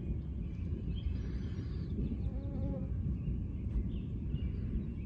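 A fly buzzing briefly past about two and a half seconds in, over a steady low rumbling noise.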